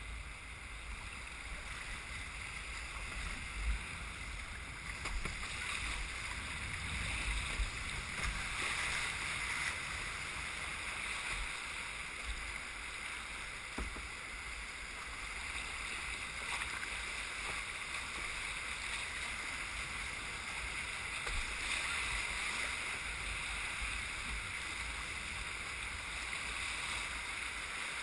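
Whitewater river rushing steadily around a moving kayak, a continuous hiss of moving water.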